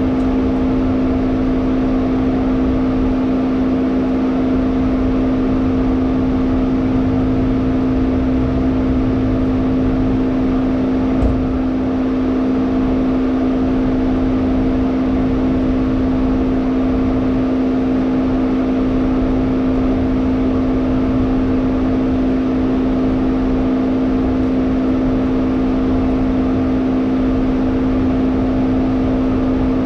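Steady in-cabin drone of a Hyundai Elantra N's turbocharged four-cylinder and its road noise, holding one unchanging pitch throughout, with a single brief knock about eleven seconds in.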